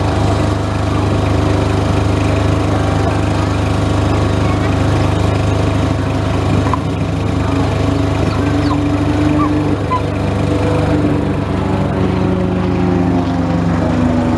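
Extra 300 aerobatic plane's piston engine and propeller running steadily through a display, its pitch shifting up and down in the second half.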